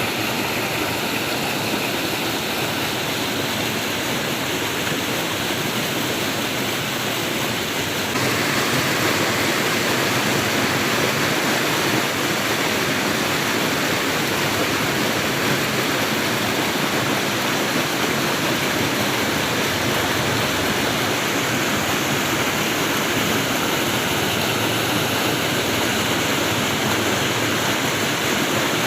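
Flowing water rushing steadily, an even hiss with no distinct events; it steps up slightly in loudness about eight seconds in.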